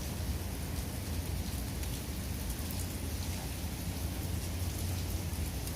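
Steady rain falling, a continuous hiss with scattered drop ticks, over a steady low rumble.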